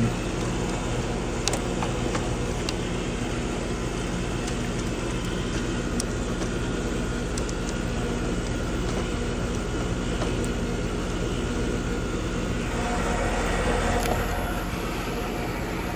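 Carrier heat pump outdoor unit running steadily: compressor hum and condenser fan, with a few faint clicks. The compressor runs, but the technician finds it is not pumping and calls it a bad compressor.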